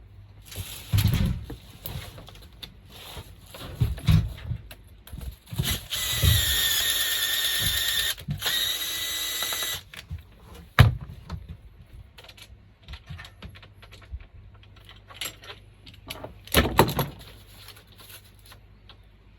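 A power drill runs steadily for about four seconds in the middle, among scattered knocks and clatter of tools and parts being handled during air-conditioner installation.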